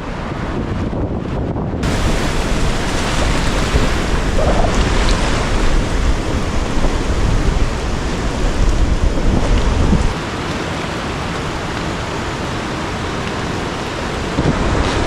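Wind buffeting the microphone over surf and pouring rain, a steady noisy wash with a heavy low rumble. The rumble eases a little about ten seconds in.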